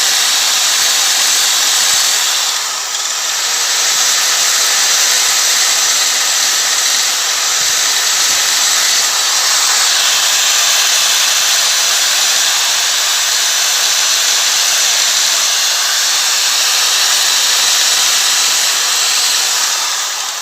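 Electric drill spinning sandpaper against an aluminium alloy wheel, sanding out scratches: a steady, loud abrasive hiss over a faint motor whine. It eases briefly about three seconds in.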